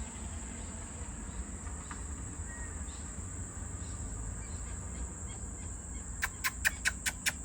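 Insects shrilling in one steady high tone. About six seconds in, a quick run of sharp clicks starts, about six a second.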